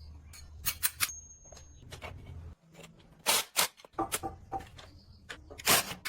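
A series of sharp knocks and clinks, with a low hum underneath that cuts off suddenly about two and a half seconds in.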